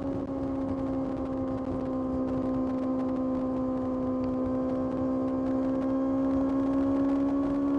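Kawasaki ZX-6R's inline-four engine running at steady high revs while riding, its pitch sagging slightly midway and climbing again near the end, with wind and road rush underneath.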